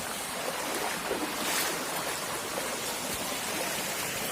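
River water running steadily, with a brief splash or swish about a second and a half in.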